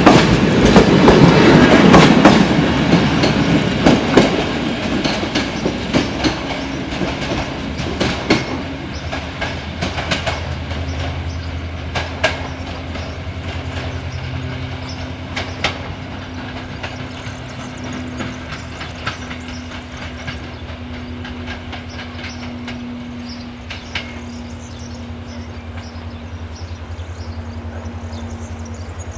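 Passenger coaches rolling past, their wheels clacking over rail joints and points. The sound fades as the train draws away, leaving scattered clicks and a steady low drone.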